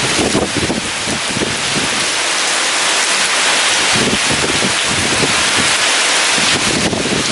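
Heavy rain pouring steadily, with strong wind gusting and buffeting in uneven low surges.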